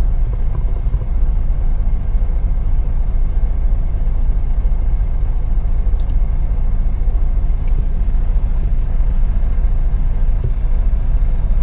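Semi truck's diesel engine idling, a steady low rumble heard from inside the cab, with a couple of faint ticks partway through.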